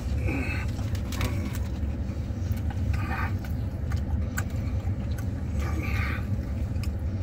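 Vehicle engine idling, a steady low rumble heard inside the cab, with a few brief rustles and clicks over it.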